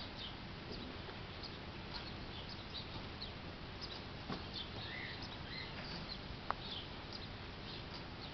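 Faint chirping of small birds: many short, high chirps scattered throughout over a steady hiss, with one sharp click about two-thirds of the way through.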